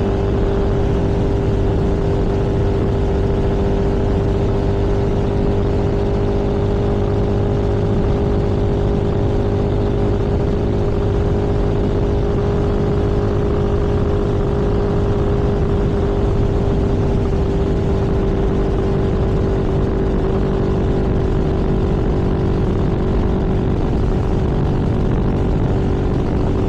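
Vehicle engine running at a steady cruising speed, a constant even hum over road and wind noise.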